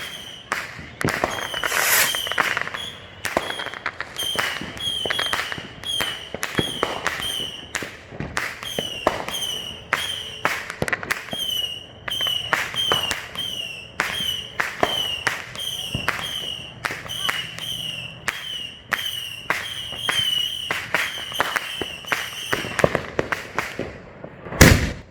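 Neighborhood consumer fireworks and firecrackers going off in rapid, overlapping bangs and crackles. A short high chirp repeats about twice a second through it, and a single very loud bang comes near the end.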